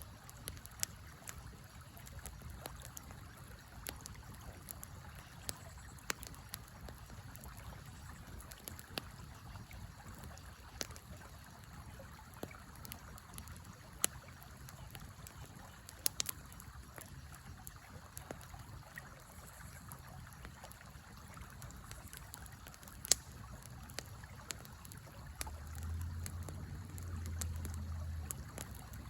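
A river flowing steadily, with scattered sharp pops and snaps from a small campfire. A low rumble rises for a few seconds near the end.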